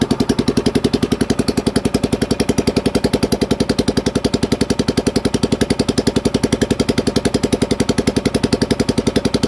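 Small single-cylinder gasoline engine on a Harbor Freight water pump running steadily with an even, rapid exhaust beat. It has just fired on starting fluid after rainwater flooded its cylinder through the muffler.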